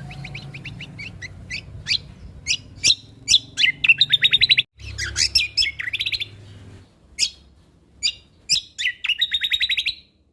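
Songbird singing a fast, varied song of high chirps, sharp whistled notes and rattling trills, loudest about four seconds in and again near the end, over a low background hum during the first seven seconds.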